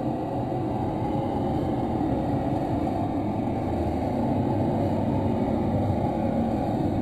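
A steady low rumble that holds evenly throughout, with no distinct knocks or tones.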